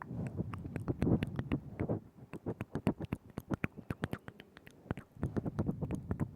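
Close-miked ASMR mouth sounds: quick wet tongue and lip clicks and smacks, several a second. Breathy, airy mouth noise runs under them over the first two seconds and again about five seconds in.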